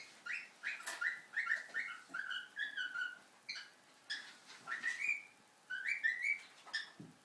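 Cockatiel whistling an improvised song: a quick run of short whistled notes, several sliding up in pitch, mixed with sharp chirps.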